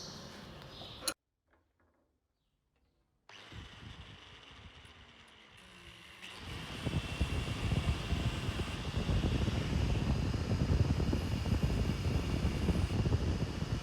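A power tool's motor running steadily, getting louder about six seconds in after a brief silent break, with a faint whine over a dense rumbling noise.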